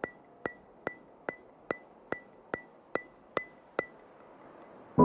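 A steady run of sharp, ringing percussive ticks, about two and a half a second, like a woodblock or metronome, stopping about four seconds in.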